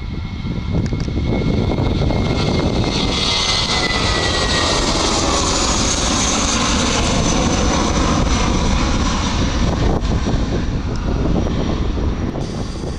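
Jet airliner's engines as the plane passes: a steady loud rush with a high whine, and a tone that falls in pitch a few seconds in.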